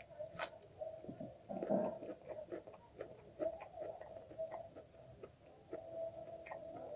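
Close-up eating of egg chow mein noodles: a rapid run of small wet mouth clicks and smacks from chewing, with one louder, fuller mouth sound about two seconds in.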